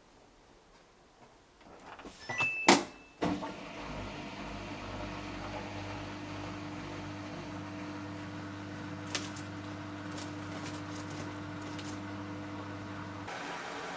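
Samsung Eco Bubble washing machine: a short electronic beep and a few clicks from its controls, then a steady mechanical hum as the machine starts up, which stops about thirteen seconds in.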